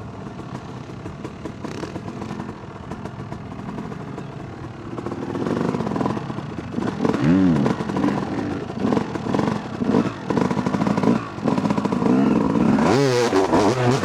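Yamaha YZ250 two-stroke dirt bike engine being ridden. It runs at lower revs for the first few seconds, then gets louder from about five seconds in, with the revs rising and falling as the throttle is worked, including two sharp rev swells.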